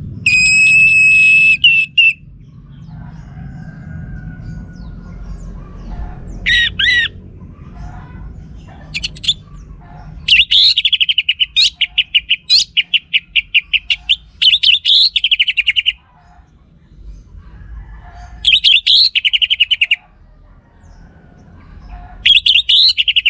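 Orange-headed thrush singing: a held whistle at the start, then loud phrases of rapid repeated, warbling notes, the longest running about 10 to 16 seconds in. A low rumble sits under the first half.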